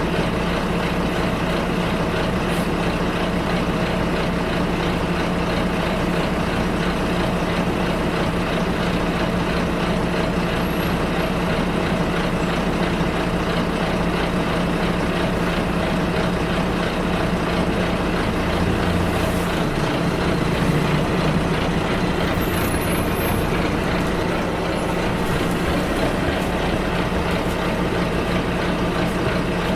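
Bus engine droning with road noise, heard from inside the moving bus. The engine note changes about twenty seconds in, and a faint brief high squeak follows shortly after.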